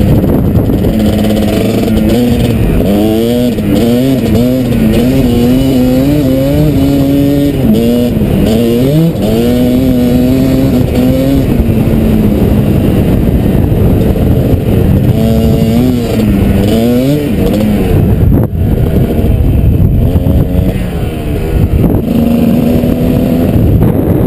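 Kawasaki KDX220 two-stroke single-cylinder dirt bike engine running under way, revving up and easing off over and over, its pitch climbing and dropping with the throttle and gear changes.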